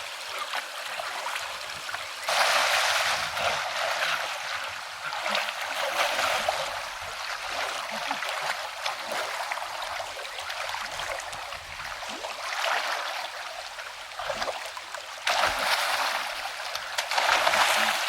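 Stream water running and trickling, with stretches of louder splashing and sloshing about two seconds in, around six seconds, and again near the end.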